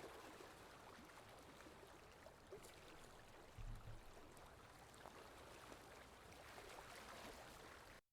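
Faint, steady hiss of a gentle stream with small ticks and a soft low thump just before halfway; it cuts off abruptly right at the end.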